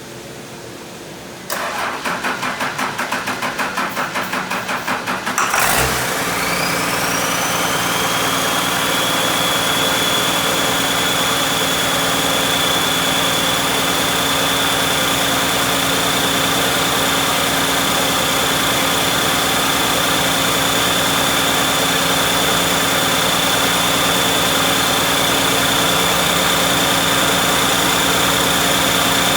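John Deere 6068TF 6.8-litre inline-six turbo diesel being cranked by its starter, pulsing about three to four times a second for roughly four seconds, then catching and settling into a steady idle. As it fires, a high whine rises and then holds steady.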